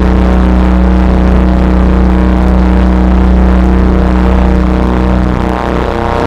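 Ambient drone music: a deep low hum and a held tone above it, stacked with overtones under a dense, grainy noise texture. The held middle tone drops away near the end.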